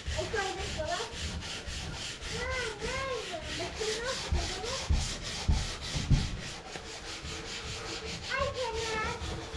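Sandpaper being rubbed by hand over a painted wooden drawer, in quick, even back-and-forth strokes, to take off old white paint. A few brief wavering vocal sounds, like a child humming, come and go over it.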